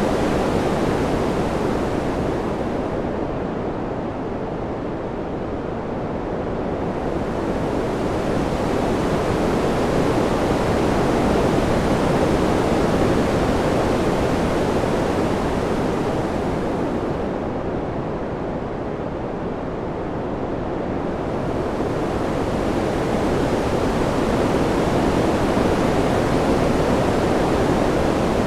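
Wind-sound ambience: an even, rushing noise that slowly swells and eases. Its hiss thins out twice, about four to six seconds in and again around seventeen to twenty-one seconds.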